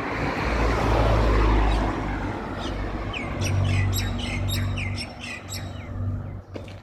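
A motor vehicle passes close by: a low rumble and tyre noise swell in the first two seconds, then its engine hum carries on steadily and fades near the end. Over the second half a bird gives a quick series of short, high chirps.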